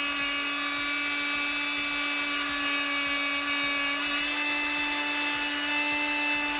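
Electrolux Ergorapido handheld vacuum cleaner's motor running with a steady pitched whine, then cutting off suddenly near the end as the battery pack gives out after only seconds of running. The owner suspects the motor is drawing too much power.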